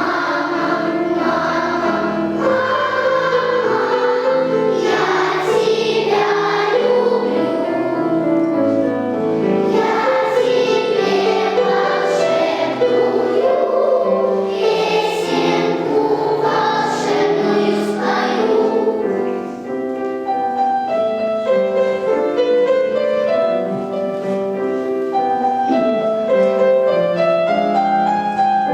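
Children's choir singing with piano accompaniment. About two-thirds of the way through the voices stop and the piano plays on alone.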